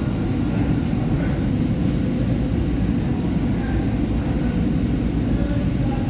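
Steady low rumble of a SEPTA Market-Frankford Line subway train heard from inside the car.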